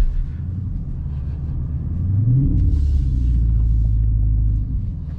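Dodge Scat Pack's 6.4-litre HEMI V8 running at low revs, rising in pitch about two seconds in and then holding a louder, deeper note for a couple of seconds before easing off near the end.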